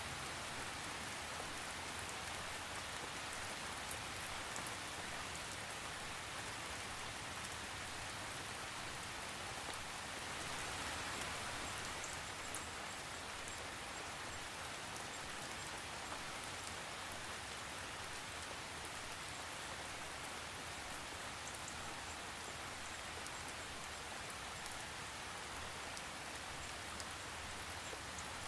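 Steady rain without thunder, an even hiss with fine drop ticks, swelling a little about ten seconds in.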